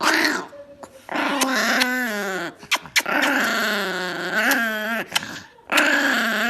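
Chihuahua giving a string of long, drawn-out whining growls that slide up and down in pitch, four in a row with short breaks between them.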